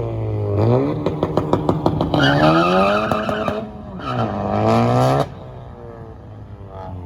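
A performance car's engine revving hard several times, with a rapid run of pops early on and tyres squealing in the middle, as in a burnout or launch. The engine drops back abruptly about five seconds in.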